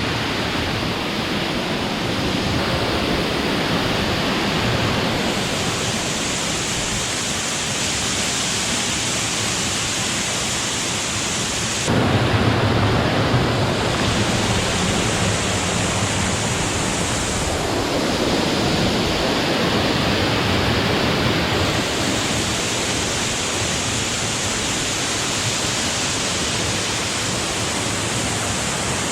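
A tall waterfall's steady rushing noise, with cicadas' high shrill drone coming and going in spells of several seconds over it. The low rush grows louder about twelve seconds in.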